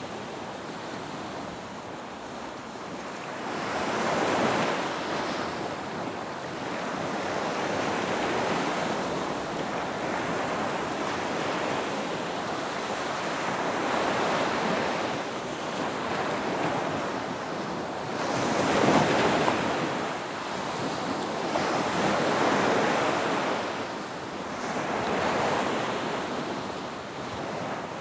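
Ocean waves breaking on a beach, the surf swelling and washing in one after another, the loudest wave breaking a little past the middle. Wind on the microphone adds a steady rush underneath.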